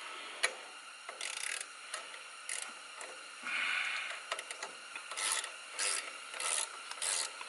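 Metal hand tools being picked up and handled, with short irregular scraping and clicking strokes, more frequent in the second half.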